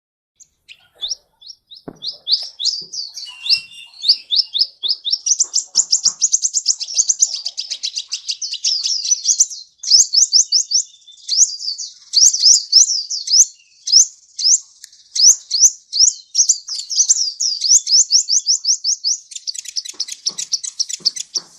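Sunbird song: a long run of fast, high, thin chirps, each a quick downward sweep, several a second, with a brief pause about halfway through.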